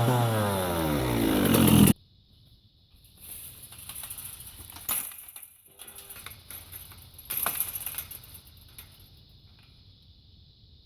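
Dirt bike engine revving, its pitch sweeping up, cut off abruptly about two seconds in. Faint clicks and rustling follow.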